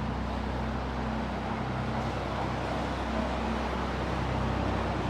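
A passing boat's engines running steadily: a low hum with a steady rushing noise over it.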